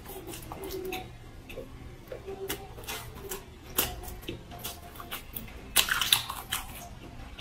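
A person chewing a mouthful of fried skewered food close to a clip-on microphone: scattered soft mouth clicks and crunches, with a louder cluster of crunches about six seconds in.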